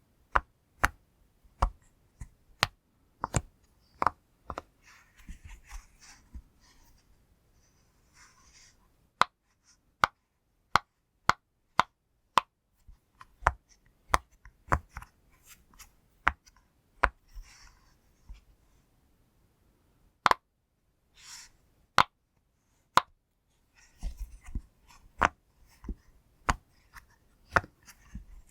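A pop fidget toy being pressed, giving a string of short, sharp pops at an uneven pace of about one or two a second. Faint rustling from handling the toy sits between the pops, and there is a brief pause a little past the middle.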